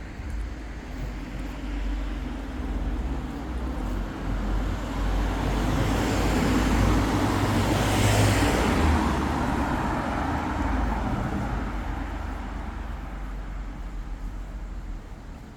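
A car driving past on the street, its engine and tyre noise swelling to a peak about halfway through and then fading away.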